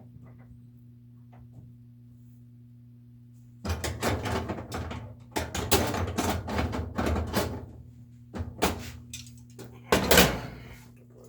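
A steady low hum, then from about four seconds in a long run of knocking and rattling, with the loudest knock about ten seconds in.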